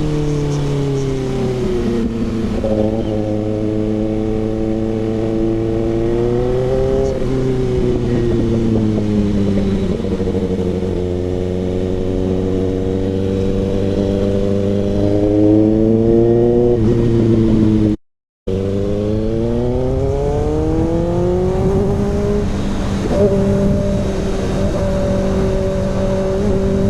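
Kawasaki ZX-6R inline-four running through an SC Project CRT exhaust while riding. The engine note rises and falls in pitch as the bike speeds up and eases off, with a low rush beneath it. The sound cuts out for a moment about two-thirds of the way through.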